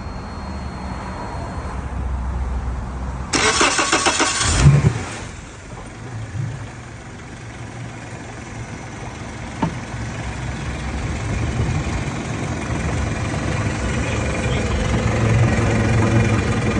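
Suzuki DF175 four-stroke outboard motor being started: the electric starter cranks for about a second and a half, the engine catches and then idles steadily, getting a little louder toward the end. A single sharp click about halfway through.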